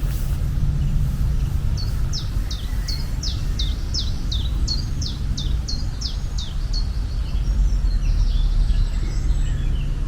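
A bird calling a rapid series of short, falling chirps, about three a second, starting about two seconds in and trailing off into fainter chirps near the end, over a steady low rumble.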